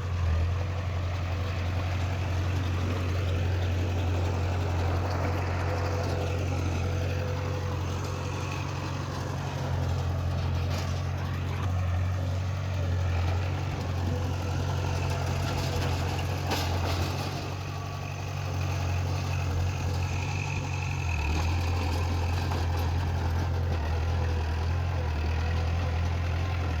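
Diesel engine of heavy earthmoving machinery running steadily with a deep, even drone that eases off briefly in the second half, plus a couple of faint knocks.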